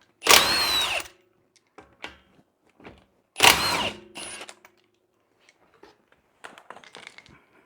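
Half-inch-drive impact wrench with a 19 mm socket breaking lug nuts loose on a Honda CR-V's front wheel, in two short bursts about three seconds apart, each spinning down with a brief whine. Light clicks and rattles of the socket and loosened nuts follow.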